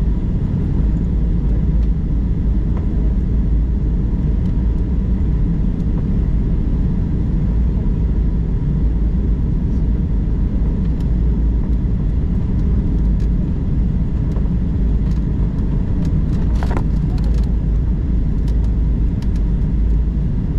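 Steady low rumble of an airliner cabin during descent: engine and airflow noise. A few faint clicks come near the end.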